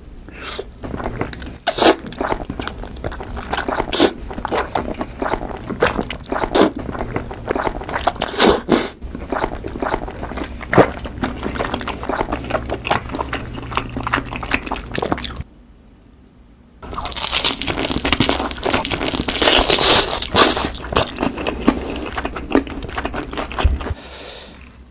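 Close-miked eating sounds: wet chewing of a mouthful of thick noodles in black bean sauce, with many small mouth clicks. After a short pause past halfway, there is a stretch of louder, crunchier chewing.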